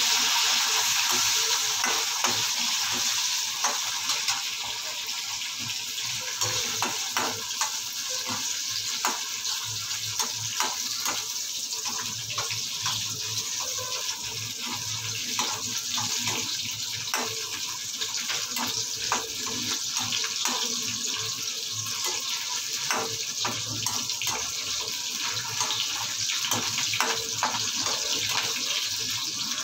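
Garlic cloves and green chillies sizzling in hot oil in a metal kadai, a steady hiss, with a slotted metal spatula clicking and scraping against the pan as they are stirred.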